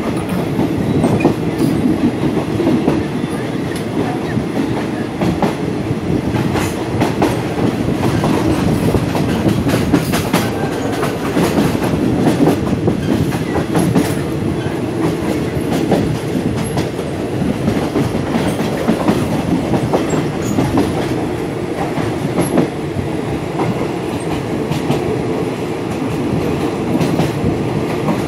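Train rolling along the track: a steady rumble with repeated clacks of the wheels over the rails.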